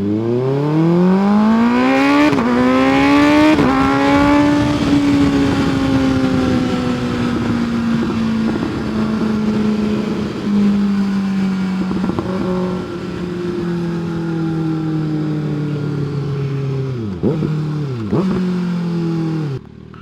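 Kawasaki Ninja ZX-6R 636 inline-four sport bike engine accelerating hard. The revs climb steeply, with two quick upshifts about two and three and a half seconds in, then it holds a steady cruise with engine speed slowly easing off. Near the end the revs drop sharply twice.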